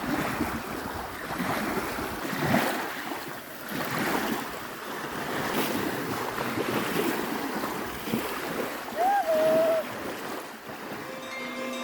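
Sea waves washing onto the shore, with wind buffeting the microphone. A short sliding tone comes about nine seconds in, and music begins just at the end.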